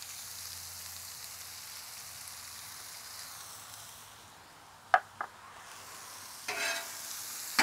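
Sliced onions frying in butter on a flat-top griddle, with a steady sizzling hiss. About five seconds in come two sharp clicks, and near the end a short scraping rattle.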